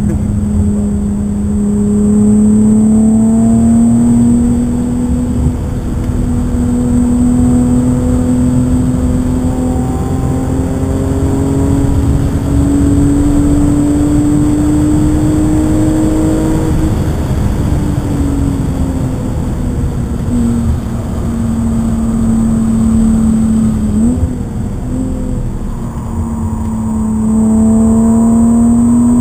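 BMW car engine pulling hard, heard from inside the cabin over tyre and road rumble. Its note climbs slowly and steadily for over half the time, drops away, holds level, then climbs again near the end.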